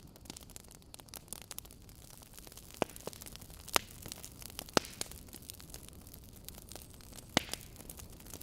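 Wood fire crackling in a fireplace: a steady soft hiss with a scatter of small crackles and four sharper pops.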